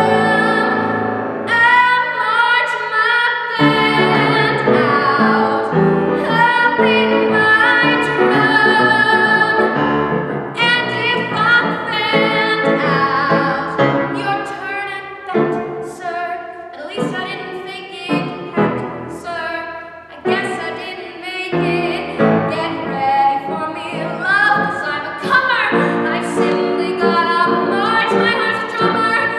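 A woman singing a show tune over instrumental accompaniment.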